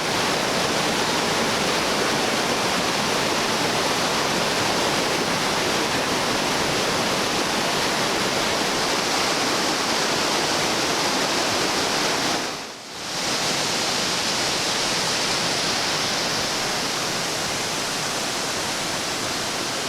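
Loud, steady rushing noise like flowing water or air, with no distinct events, briefly dipping about 13 seconds in before carrying on.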